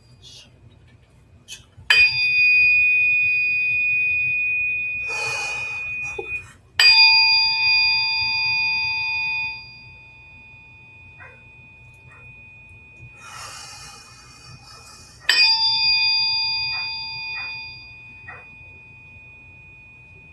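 Metal tuning forks struck three times, each strike ringing on as a few clear high tones that slowly fade, with soft rustling between strikes.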